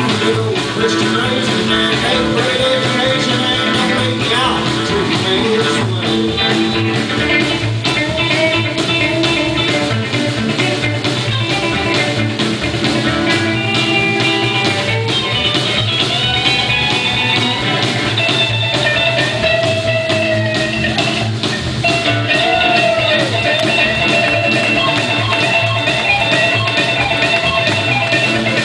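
Live outlaw country band playing an instrumental break: a guitar lead with bending notes over bass and drums.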